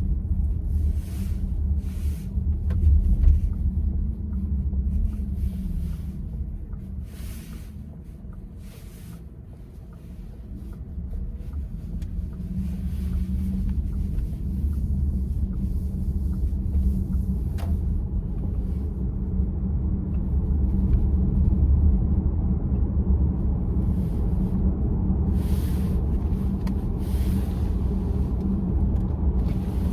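Road and tyre rumble inside the cabin of a VW ID.4 electric SUV on the move, with no engine note. It grows quieter around ten seconds in and then builds again.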